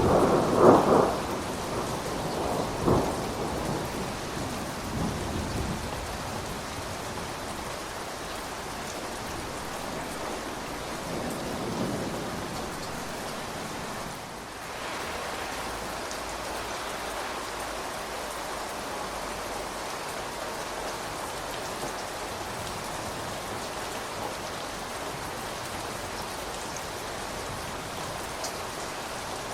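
Steady rain falling, with a rumble of thunder at the start that dies away over the first few seconds.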